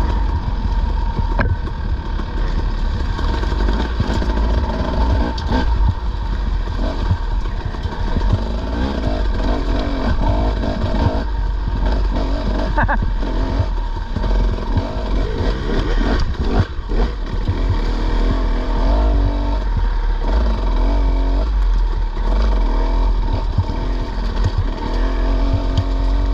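Dirt bike engine running under load off-road, its revs rising and falling, with scattered knocks and clatter from riding through brush.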